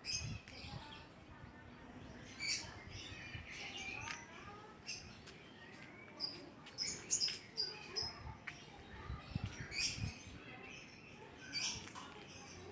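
Small birds chirping in many short, scattered high calls, with a few soft low thumps in between.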